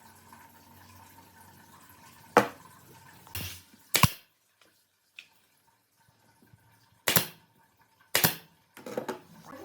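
About five sharp knocks at irregular intervals, with near-quiet gaps between them.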